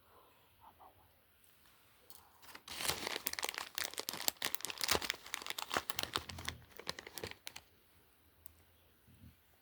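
Product packaging crinkling and tearing as it is opened by hand, a dense crackling run starting about two and a half seconds in and dying away near the end.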